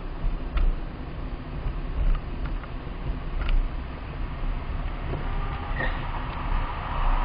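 Car on the road: a steady low rumble of engine and tyres, with a few light knocks and a brief rising hiss near the end.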